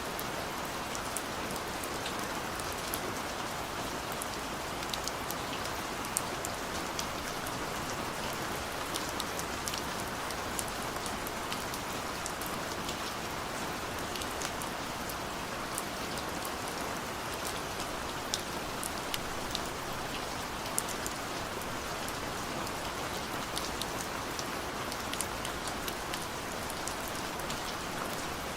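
Steady rain falling on a surface, a constant hiss with many sharp individual drop ticks scattered through it.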